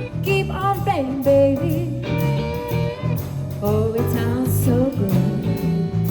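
Live blues band playing, with guitar, piano, bass and drums: bending, gliding melody notes over a steady bass line and drums.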